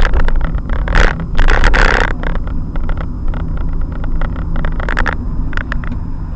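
Car and road noise heard through a dashcam: a steady low rumble with many irregular clicks and knocks, and two louder rushes of noise about one and two seconds in.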